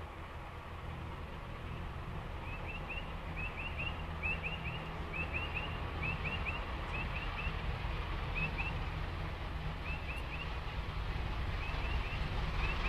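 A small bird calling in quick groups of two or three short, high chirps, repeated about every half second, over a low steady rumble that swells toward the end.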